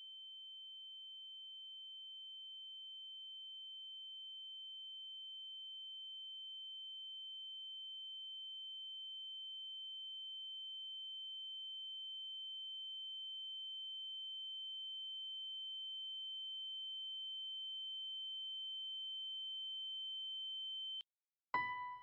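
A steady, high-pitched pure tone that slowly grows louder and cuts off suddenly near the end, followed by a single struck note.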